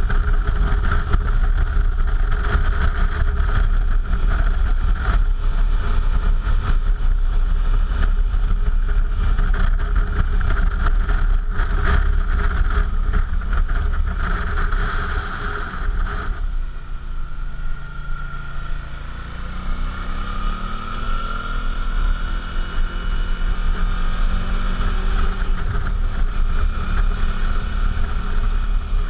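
Suzuki V-Strom motorcycle on the move, with heavy wind rush on the camera microphone over the engine. A bit past halfway the wind noise drops, and the engine note is heard rising in pitch as the bike speeds up again.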